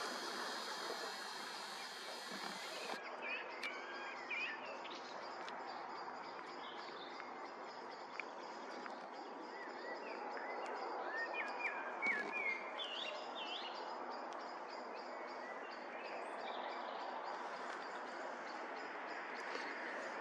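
Small birds singing and chirping intermittently over a steady outdoor background hiss, the calls busiest a few seconds in and again around the middle.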